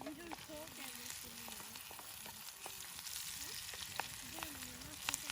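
Food sizzling in a pan over a campfire, with a few sharp clicks and scrapes of a utensil stirring it.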